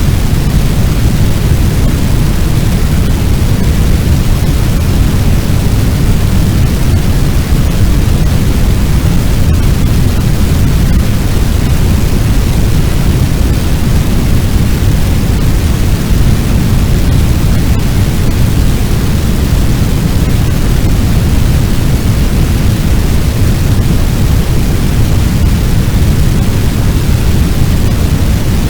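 Fire sound effect imitating a large building fire: a loud, steady, deep rushing noise with no crackle or change.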